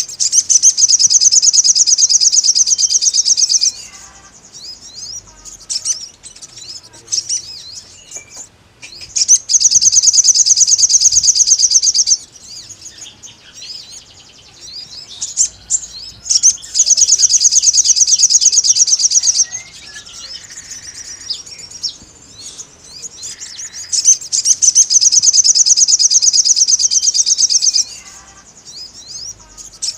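Crimson sunbird (sogon) singing its challenge song: four long bouts of rapid, high trilling, each about three to four seconds, with short scattered chirps in between.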